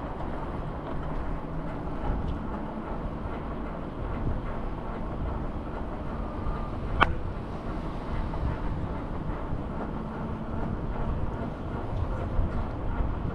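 Steady ride noise from a scooter moving through city streets, heaviest in the lows, with one sharp click about halfway through.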